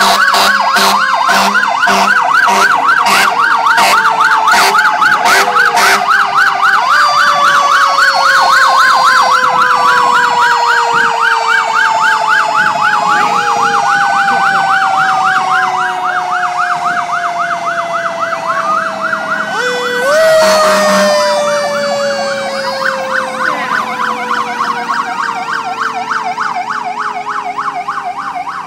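Several emergency-vehicle sirens sounding together from a passing fire truck and police escort: a fast yelp over long, slowly falling wails. A string of short horn blasts, about two a second, runs through the first few seconds, and another loud blast comes about twenty seconds in.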